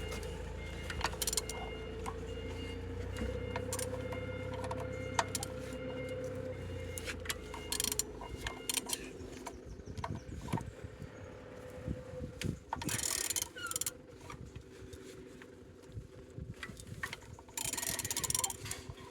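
Engine being turned over by hand with a wrench on the crankshaft: scattered ratchet and metal clicks with a couple of longer rasping strokes, the engine turning freely rather than seized. A steady background hum fades out about halfway through.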